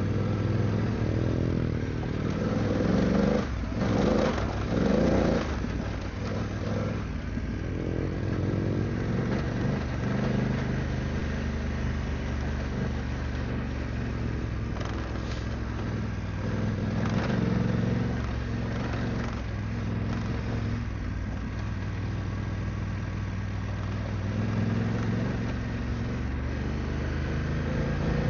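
BMW F900GS parallel-twin engine running under way on a dirt trail, the revs rising and falling with the throttle. Knocks and clatter of the bike over rough ground come mostly a few seconds in.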